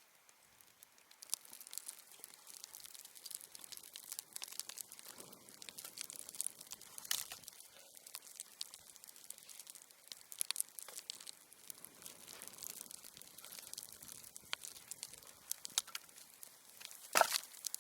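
Plastic packaging rustling and crinkling as cooking supplies are unpacked, with many scattered sharp clicks and a louder knock near the end.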